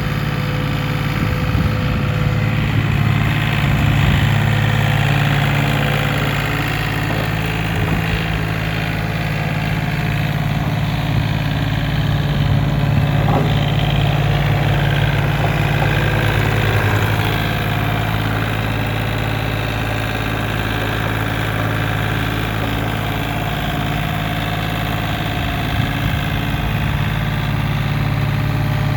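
Engine of a 2021 Ditch Witch SK1050 mini skid steer running steadily at idle.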